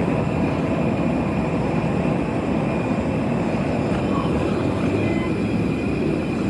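Steady jet aircraft noise on an airport apron: a low, even roar with a constant high whine above it.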